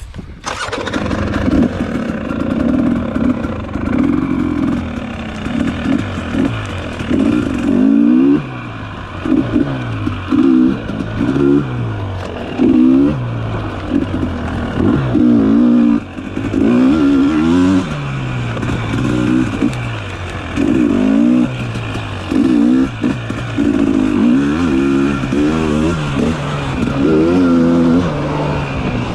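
Dirt bike engine being ridden on a trail, revving up and down over and over, its pitch climbing and dropping every second or two as the throttle is opened and closed.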